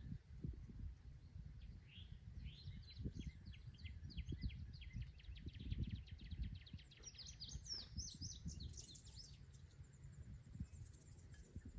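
A small songbird singing one long trill of rapid, evenly repeated notes that climbs steadily in pitch over about eight seconds, over a constant low rumble.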